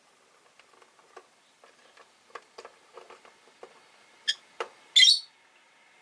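Rosy-faced lovebirds in their cage: a run of light clicks and taps, then two sharper clicks and a single short, shrill chirp about five seconds in.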